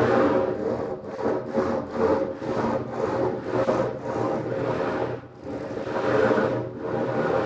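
CNC machine cutting material with a rasping, saw-like noise over a steady motor hum, the cutting sound rising and falling about once a second.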